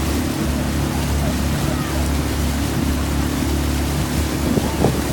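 Outboard motor of a small launch running steadily at cruising speed over a steady hiss, with a faint distant shout near the end.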